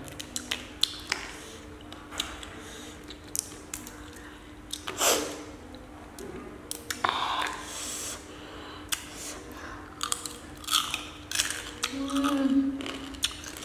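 Close-up eating sounds of cooked small crabs: shells cracked by hand and crunched and chewed in the mouth, giving many sharp irregular cracks and clicks, with a short vocal sound near the end.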